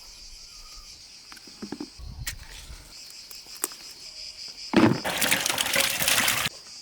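Crickets chirping steadily, with a few scattered clicks and knocks. Near the end, a loud burst of rough noise lasts about a second and a half, louder than the crickets, and cuts off suddenly.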